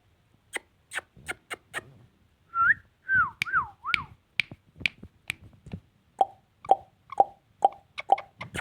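Ringneck parrot making a run of sharp clicks and pops, about two a second, with a few warbling whistles about three seconds in.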